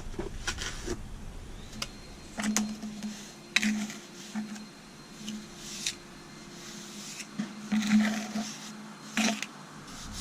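Hand trowel scraping and packing a stiff, dry concrete patching mix into a damaged stair, in a handful of short, gritty strokes.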